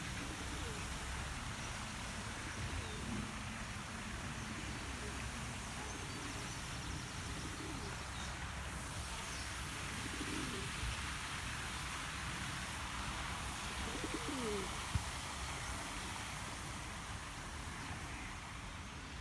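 A pigeon cooing: a few low coos spread through, over a steady hiss of outdoor background noise. One short knock sounds late on.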